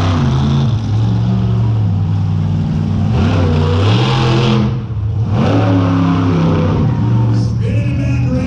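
Monster truck engine revving hard, its pitch rising and falling again and again, with a brief drop about five seconds in before it picks up again.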